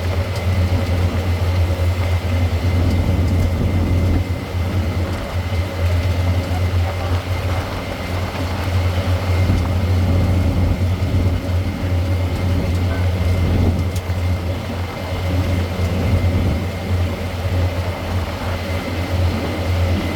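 Tourist road train running steadily, heard on board: a continuous low engine drone with a thin steady whine above it.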